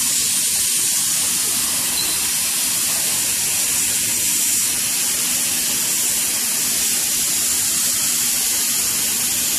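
Hot-air PVC banner welding machine running, its blower giving a steady, even hiss of hot air.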